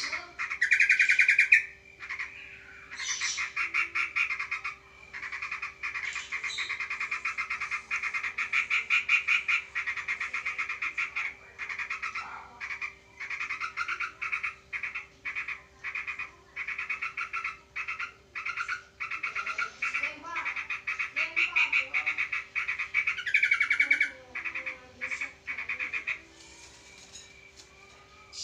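Sooty-headed bulbul and Eurasian tree sparrow calling in long runs of fast, chattering bursts, the agitated calling of birds squaring up to a rival. A steady low hum runs underneath.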